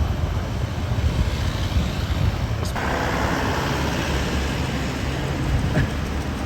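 Road traffic with a steady low engine rumble. A sharp click comes about two and a half seconds in, followed by a louder rushing noise.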